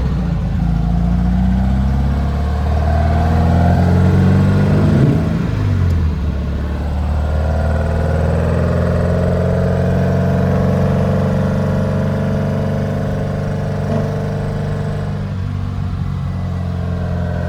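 1800cc air-cooled VW flat-four engine pulling a 1957 Beetle on the road through its freshly rebuilt transmission. The revs drop about five seconds in, as at a gear change, then the engine runs steadily with its pitch slowly rising.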